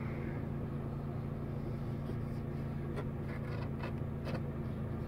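The supercharged 3.8-litre V6 of a 2004 Chevrolet Impala SS idling, a steady hum heard from inside the cabin. A few clicks of the overhead console's trip-computer buttons being pressed come about three to four seconds in.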